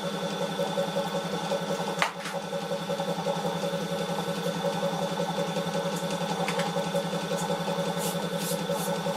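A small electric motor running steadily with an even hum, with a sharp click about two seconds in and a few light ticks near the end.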